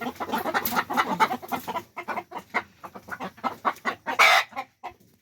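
A flock of chickens clucking in rapid, overlapping short calls, with a louder harsh burst about four seconds in.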